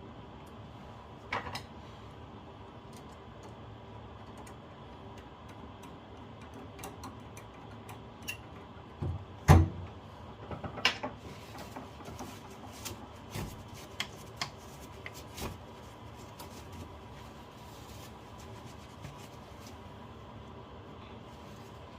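Scattered clicks and knocks of tools and metal parts being handled during plumbing work, with one louder knock about nine and a half seconds in, over a faint steady hum.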